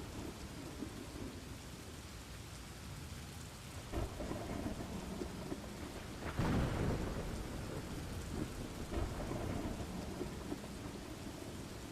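Steady rain with low rumbling thunder, one stronger roll of thunder swelling up about six seconds in and fading after a second or so.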